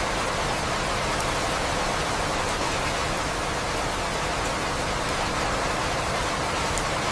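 Steady rain falling: an even, dense hiss with a few faint drop ticks.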